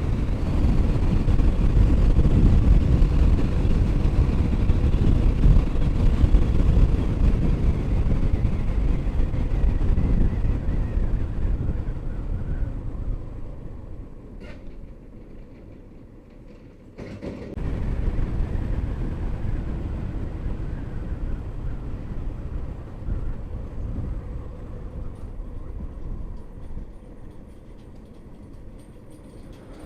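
Wind and road noise while riding a motorcycle, a low steady noise with no clear engine note. It is loudest at first, fades off around the middle, then comes back abruptly about seventeen seconds in and slowly quietens again.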